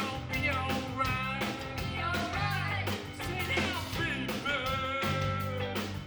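Live rock band playing: a steady drum beat, bass and guitar, with a wavering lead melody over the top.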